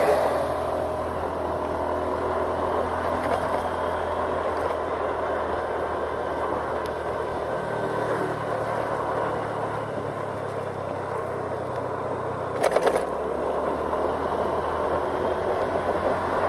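Vehicle engine running steadily over road noise while travelling along a road. Its low drone shifts pitch about halfway through and again near the end, and a brief loud clatter, like a bump, comes about three-quarters of the way in.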